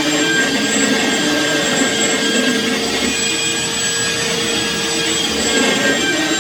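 Electric power sander running steadily with a constant motor whine, sanding down a wooden stair-nose repair that sticks out too far.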